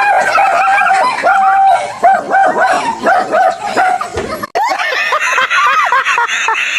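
Dog barking and yipping in quick, repeated short calls, broken off abruptly about four and a half seconds in before the calls resume.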